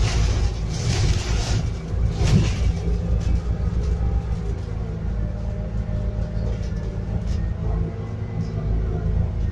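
Scania N280UD double-decker bus's biogas-fuelled engine running as the bus drives, heard from inside: a steady low rumble whose pitch bends gently up and down in the second half, with a few short knocks or rattles in the first couple of seconds.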